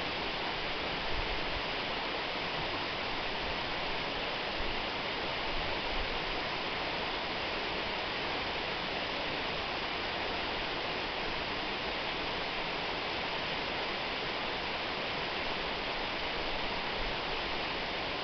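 Waterfall: falling water making a steady, even rushing noise without a break.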